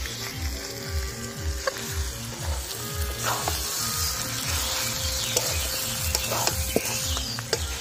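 Mutton and potato pieces sizzling in spiced oil in a kadai while a metal spatula stirs them, with a few sharp scrapes and knocks of the spatula on the pan. A steady low beat of background music, about two beats a second, runs underneath.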